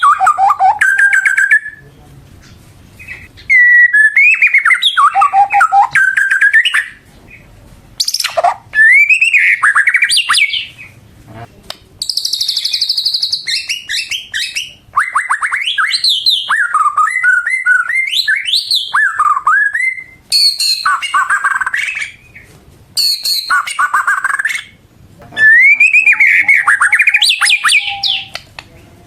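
White-rumped shama (murai batu) in full song: loud, varied phrases of gliding whistles and rapid runs of notes, each lasting a few seconds, with short pauses between them.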